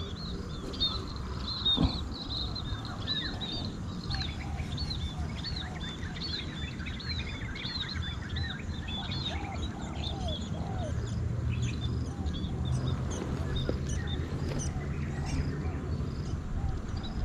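Birds chirping throughout in many quick repeated arched notes, some high and some lower, over a steady low background noise. A short knock sounds about two seconds in.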